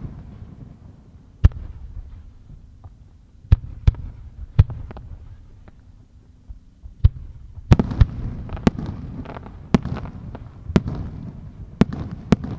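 Aerial firework shells bursting: a dozen or so sharp bangs at irregular intervals, coming faster in the second half, with low rumbling echo rolling between them.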